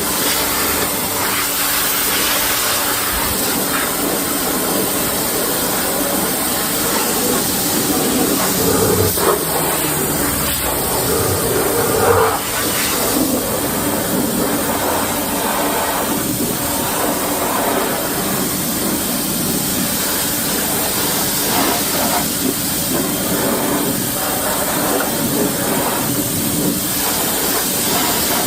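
Ryobi pressure washer spraying a steady, hissing jet of water into a car's engine bay, with the washer's pump running underneath.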